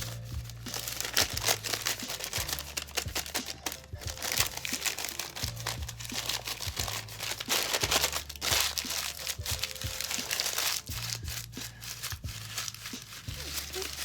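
Paper crinkling and masking tape tearing as it is wrapped around a paper-and-wire sculpture, an irregular crackle, over background music with long low bass notes.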